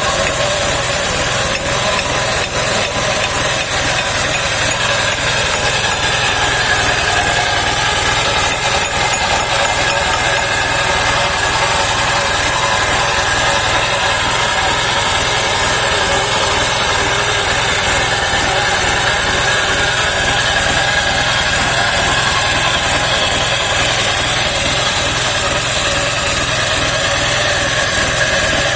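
Homemade circular sawmill running steadily, its engine and spinning blade giving a loud, even drone with no clear change in load.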